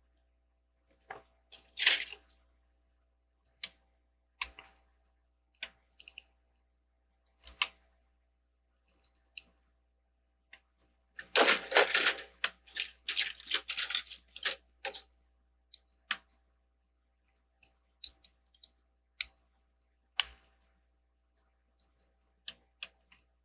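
Small plastic Lego pieces clicking and clattering as they are handled, with a dense run of rattling for a few seconds in the middle.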